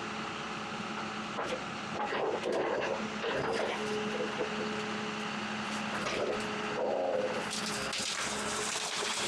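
Forestry log forwarder's engine running steadily as its crane grapple moves brush, with irregular crackling and snapping of leafy branches from about a second and a half in.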